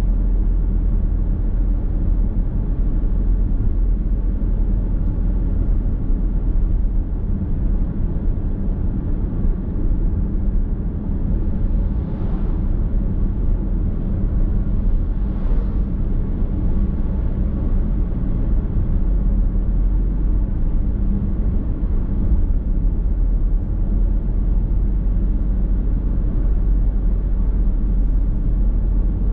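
Steady road and tyre rumble of a car driving, heard from inside the cabin.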